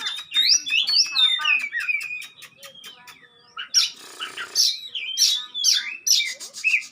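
Oriental magpie-robin (kacer) singing: a fast, varied run of whistled notes sweeping up and down in pitch, with a short harsh rasping note about four seconds in.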